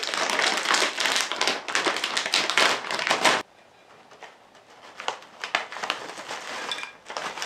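Doritos snack bag being opened and crinkled: a loud, dense crackle of plastic packaging that stops abruptly about three and a half seconds in, followed by quieter scattered rustles and light clicks.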